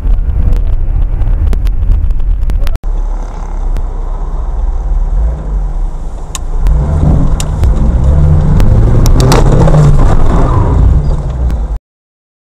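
Car engine and road noise recorded from a moving car, with scattered sharp clicks. It breaks off for an instant about three seconds in, comes back, swells with a few sharp knocks, and cuts off abruptly near the end.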